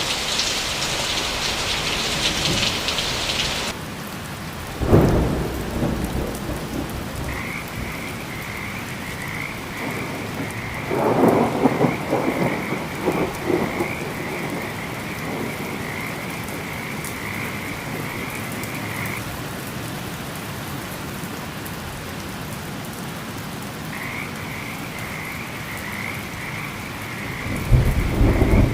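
Heavy rain falling steadily, loudest in the first few seconds, with thunder cracking about five seconds in and rumbling again around eleven seconds and near the end. A pulsing frog chorus croaks from about seven seconds in until about nineteen, and again from about twenty-four seconds on.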